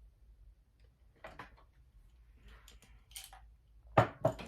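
Small cosmetics container being handled: faint rustles, then two sharp plastic clicks close together near the end.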